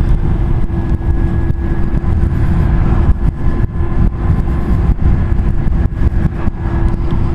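Wind rushing over the microphone on a moving Zero SR electric motorcycle, with a steady hum underneath and no engine note.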